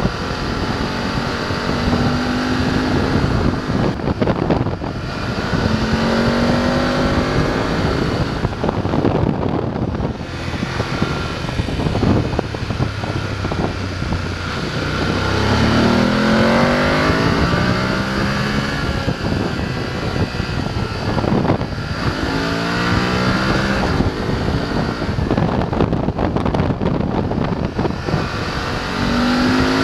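BMW F850 GS's parallel-twin engine, heard from the bike while riding, accelerating again and again. Its pitch climbs and falls back several times as the rider works through the gears. A steady rush of wind noise runs underneath.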